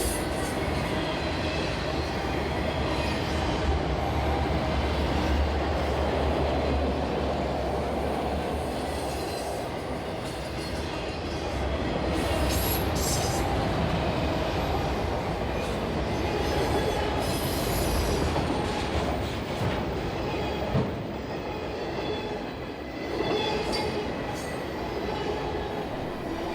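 A freight train of loaded auto rack cars rolling past: a steady rumble of steel wheels on the rail. The rumble is deeper for the first third and then holds even.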